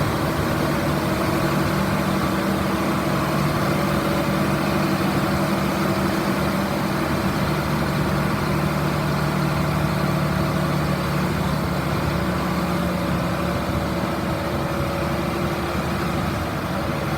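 John Deere 8420 tractor's six-cylinder diesel engine running steadily at an even speed.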